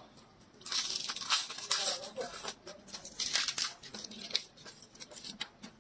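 Close-miked crisp crunching of raw vegetable stalks being bitten and chewed: a dense run of crackling crunches from about a second in until nearly four seconds, then a few lighter crunches.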